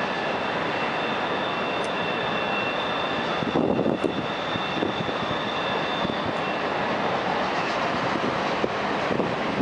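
Train passing close by: a steady, loud wash of wheel and car noise, swelling briefly a few seconds in, with thin high squealing tones that die away about two-thirds of the way through.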